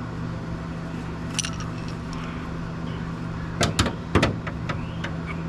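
A few sharp metallic clinks and knocks, bunched between about three and a half and four and a half seconds in, from metal parts or tools being handled under the car, over a steady low hum.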